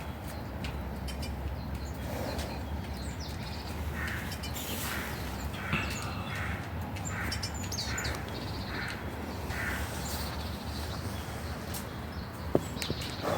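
A bird calling in a run of about six evenly spaced calls in the middle, with smaller birds chirping high over a steady low background rush, and one sharp click near the end.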